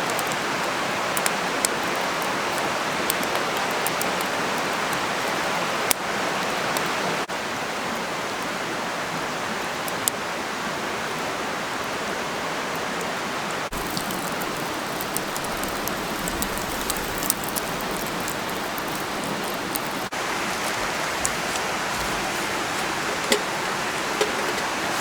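Campfire burning with a steady hiss and scattered sharp crackles and pops from the burning wood.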